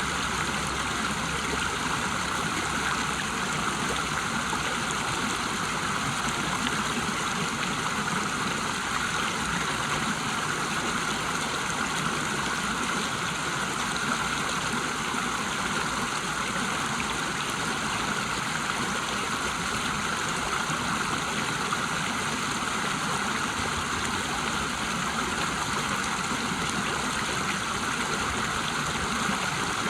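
River water rushing over a small waterfall: a steady, even wash of water noise.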